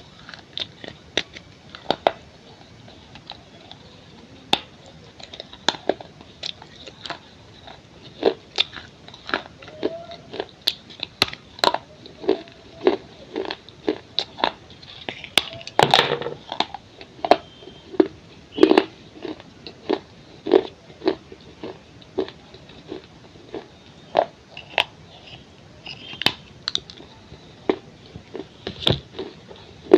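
Pieces of a baked clay pot bowl being bitten and chewed: a steady run of sharp, dry crunches, one or two a second, thickening into a louder cluster of crunches about halfway through.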